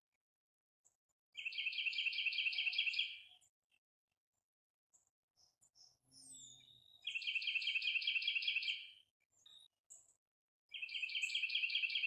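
A songbird singing the same fast trill three times, each trill about two seconds of rapidly repeated notes, with a few short faint calls between the trills.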